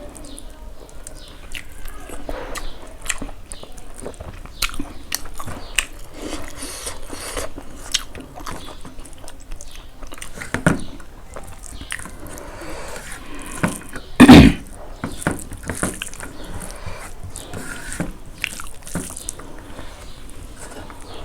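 Close-up chewing and eating sounds, a run of small wet smacks and clicks as pork fry and rice are eaten. A single short, much louder bump about fourteen seconds in.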